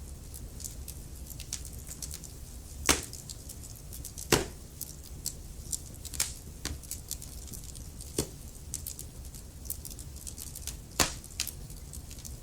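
Wood fire burning in a fireplace: a constant scatter of small crackles and about four louder sharp pops, over a low steady rumble of the flames.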